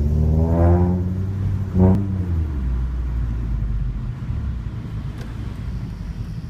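Scion tC's 2AR four-cylinder engine through an aftermarket Megan Racing and TRD exhaust: the revs climb and fall away, there is a quick rev blip just under two seconds in, and then it settles to a steady low rumble.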